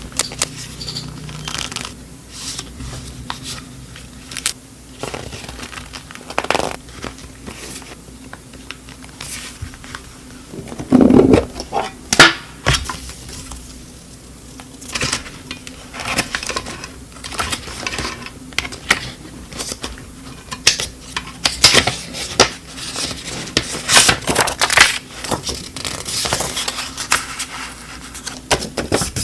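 Close-up handling sounds of coffee-making and desk things: scattered clicks, taps and light clinks of dishes, with one louder, fuller sound lasting about a second, about eleven seconds in.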